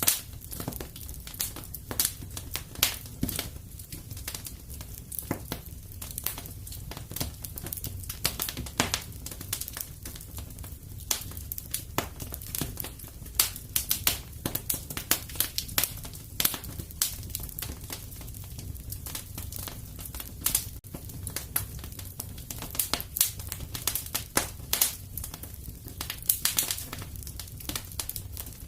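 Wood fire in a fireplace crackling steadily, with frequent irregular sharp pops and snaps over a low rumble of flame.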